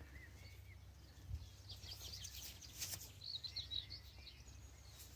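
Faint bird chirps and twitters, a cluster of short calls about three to four seconds in, over quiet outdoor background noise with a couple of soft clicks.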